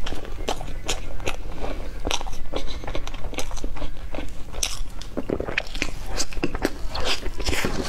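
Close-miked biting and chewing of a chocolate-coated cake: an irregular run of sharp clicks and cracks as the pieces are bitten and chewed.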